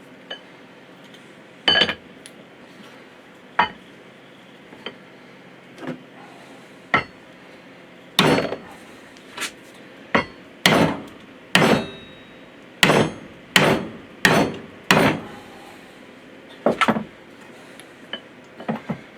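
Hammer blows driving a tight new spacer onto a Bobcat S530 skid steer's bucket cylinder. A few scattered taps come first, then a run of about nine sharp strikes at a little over one a second, then two more. The part is a stiff, tight fit and will not go on easily.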